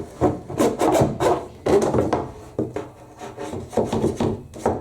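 Matted lint being scraped and pulled by hand out of a Proline condenser tumble dryer's air vent, in a run of irregular rubbing strokes. The lint is caked on, stuck down by fabric conditioner.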